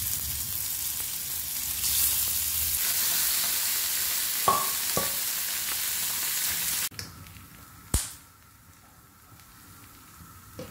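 Fish frying in hot oil, a dense steady sizzle with two light clicks about halfway through. The sizzle cuts off abruptly about two-thirds of the way in, leaving a much quieter stretch with a single knock.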